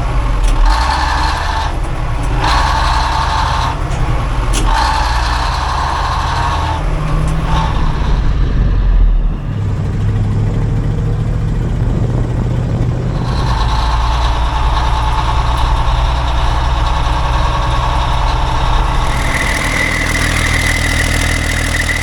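Heavy diesel engine of a farm machine running after being tow-started. Its note shifts about nine seconds in, and a steady high tone joins near the end.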